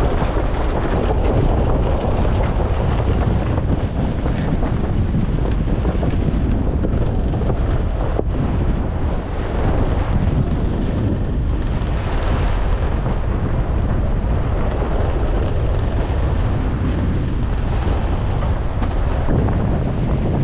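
Strong wind, around 15 m/s, buffeting the microphone aboard a small sailboat, with waves and water rushing past the hull. The noise is steady and loud, heaviest in the low end, with no distinct tones.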